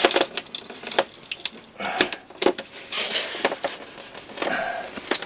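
Irregular sharp clicks and light knocks from handling the parts of a model aircraft, with a few short scrapes or rustles in between.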